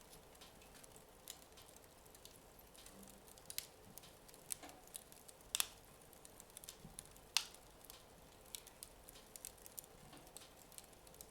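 Wood fire in a fireplace crackling softly: sparse, irregular small crackles over a low hiss, with two louder sharp pops about five and a half and seven and a half seconds in, as the fire burns down.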